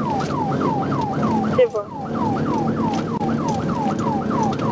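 Police car siren in a fast yelp, each cycle a falling wail, repeating about three times a second, with a brief break a little under two seconds in.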